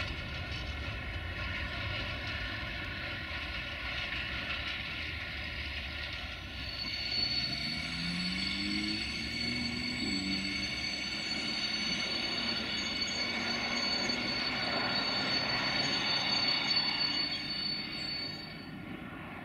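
Freight train's hopper wagons rolling past on the track, a steady rumble of wheels on rail. About six seconds in, a high steady wheel squeal joins. The squeal and the rumble fade near the end as the train moves away.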